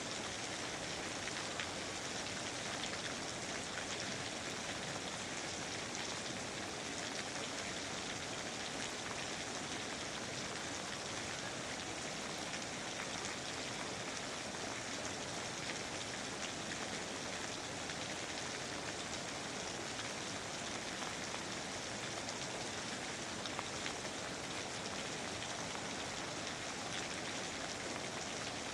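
Steady rain falling in a rainforest, an even hiss with many small drop ticks and no change in strength.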